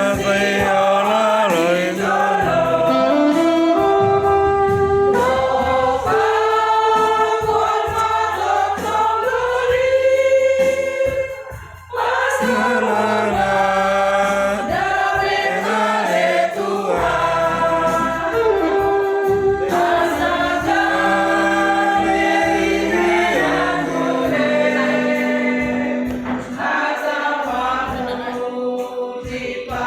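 A choir singing in harmony, with long held chords and a brief pause about twelve seconds in.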